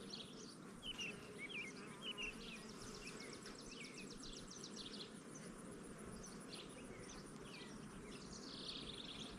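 Honey bees buzzing around an open hive during a frame inspection: a faint, steady hum, with brief bird chirps scattered through it.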